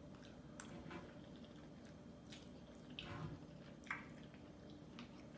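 Faint, wet chewing and mouth smacks of someone eating japchae glass noodles, heard as a scattering of short soft clicks.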